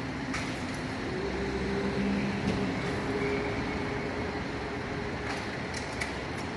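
A heavy vehicle's engine running steadily, with a low hum and a few faint clicks.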